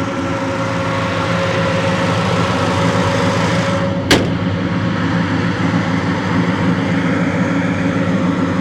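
The 1983 Chevy C10's built engine idling steadily through its dual exhaust with X-pipe, with one sharp slam about four seconds in.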